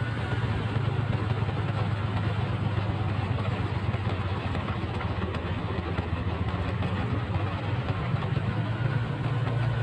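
Motorcycle engine running at a steady, even pitch under a constant hiss of noise.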